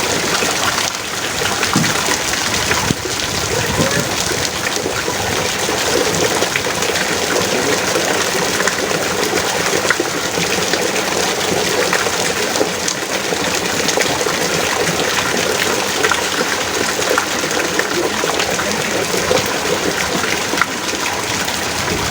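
Heavy rain pouring steadily, a dense even hiss with many small drop hits.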